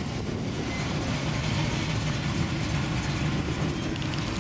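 Car engine running slowly at low revs, a steady low engine sound without revving.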